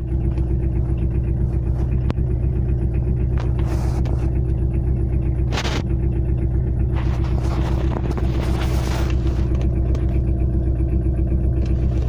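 Tata Indica car engine running with a steady, evenly pulsing knock, which the owner reports as an engine knock problem he needs a fix for.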